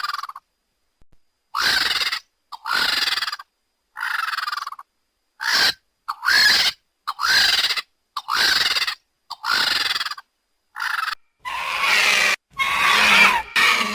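A bird's harsh, hoarse screeching calls, about eleven in a row roughly a second apart, the last few longer and louder.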